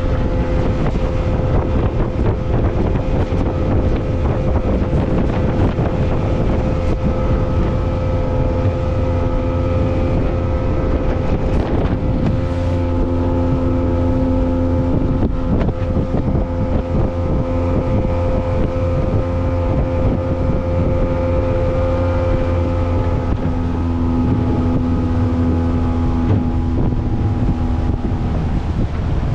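Motorboat engine running steadily at cruising speed, with wind buffeting the microphone.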